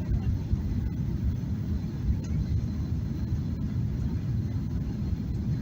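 Steady low rumble of a Boeing 737-800's cabin in flight, the engine and airflow noise of the airliner during its descent.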